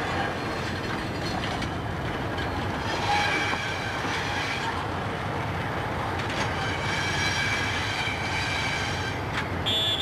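Passenger coaches of a diesel-hauled train rolling slowly past over a steady rumble, with high-pitched wheel squeal that rises and fades twice.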